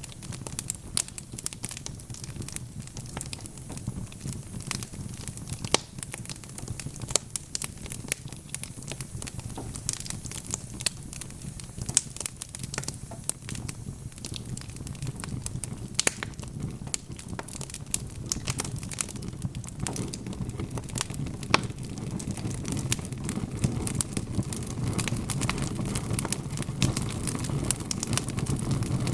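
Burning logs in a fireplace crackling, with frequent sharp irregular pops over a low rumble of flame. The rumble grows louder in the last several seconds.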